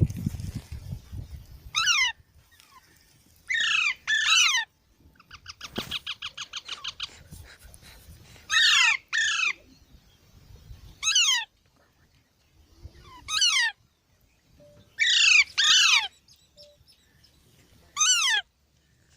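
Parrot screeching: about ten harsh calls, each falling sharply in pitch, coming singly or in quick pairs every couple of seconds. A fast chattering rattle comes about a third of the way in.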